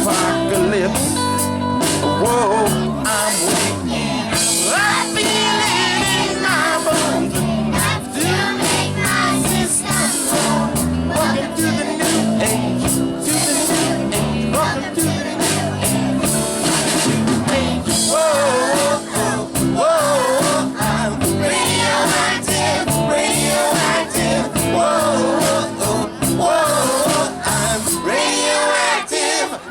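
Children's chorus singing over a recorded pop-rock backing track with guitar and a steady beat.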